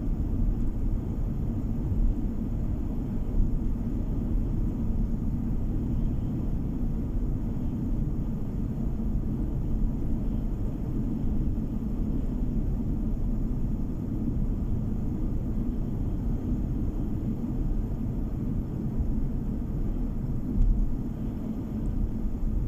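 Steady low road and engine rumble of a car driving along, heard inside the cabin.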